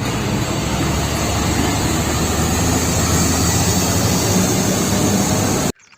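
Loud, steady truck-engine sound, a rushing noise over a low rumble, that starts at once and cuts off suddenly near the end, like an edited-in sound effect for the toy truck.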